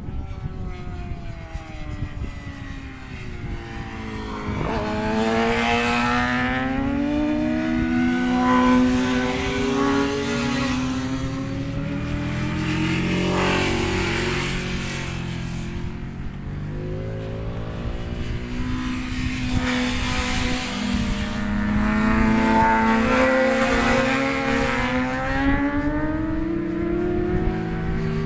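Racing motorcycles lapping the circuit at speed, engine notes rising and falling through the gears as they pass one after another. Wind rumbles on the microphone underneath.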